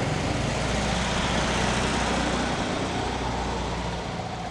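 A motor vehicle's engine running close by with a steady low hum, slowly fading.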